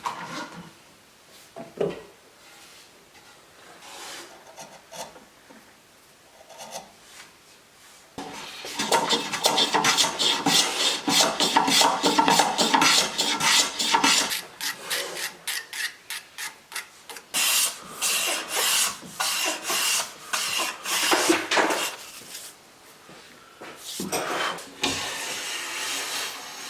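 A hand tool worked on cherry wood in rapid back-and-forth rasping strokes. The strokes come in three runs: a long one starting about a third of the way in, another after a short pause, and a shorter one near the end. Before the first run there are only faint scattered taps.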